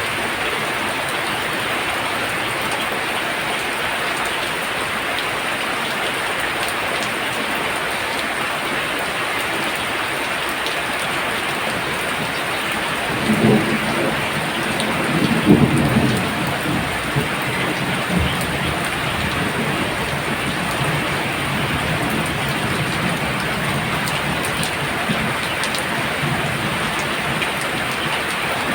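Very heavy rain pouring down steadily, with a low rumble of thunder swelling up about halfway through and fading over a few seconds.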